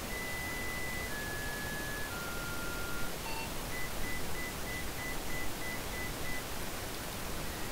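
Electronic dashboard chimes of a 2016 Blue Bird Vision school bus: three falling tones of about a second each, a short beep, then a quick run of about nine beeps at roughly four a second. A steady hiss lies underneath.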